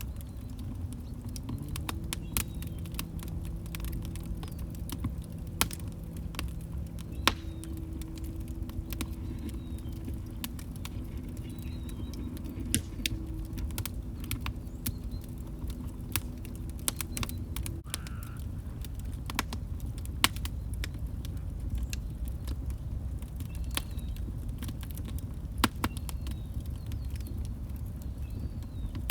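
Wood fire in a fireplace crackling, with a low rumble and irregular sharp pops and snaps. A low steady hum runs under it until about two-thirds of the way in, then stops.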